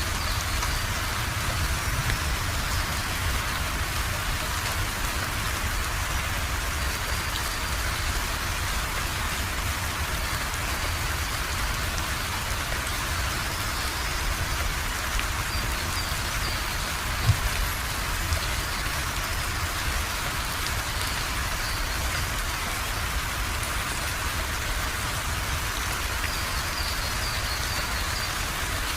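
Steady rainfall pattering on surfaces, with a low rumble underneath and a couple of brief knocks a little past halfway.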